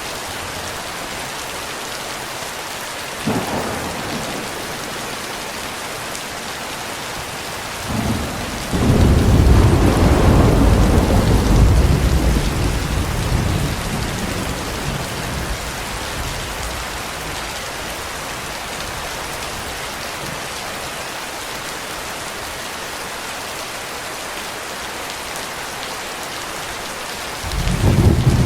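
Steady heavy rain with rolling thunder: a short rumble about three seconds in, a long rumble that builds from about eight seconds in and fades away over several seconds, and another starting near the end.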